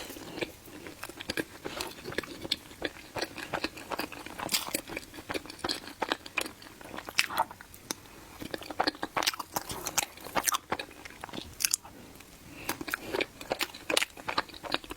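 Close-miked chewing and biting of a matcha mille crepe cake: a dense, irregular run of small wet mouth clicks and smacks.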